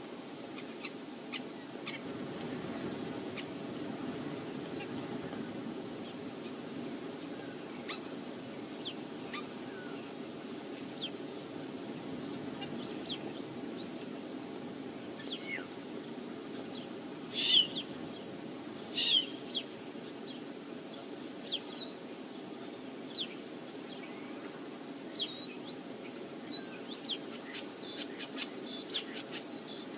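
Birds calling in short, high chirps over a steady rush of wind on the microphone, with the loudest cluster of calls a little past halfway.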